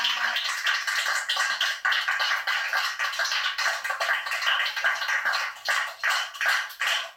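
Live acoustic band playing without singing: a dense rhythmic texture that settles into sharp strokes about twice a second near the end.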